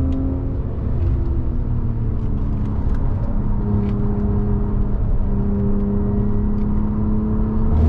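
Audi A6 C6's 3.2 FSI V6 engine running at speed on track, heard from inside the cabin with tyre and road rumble. The engine note shifts in pitch in the first second or so, then holds nearly steady.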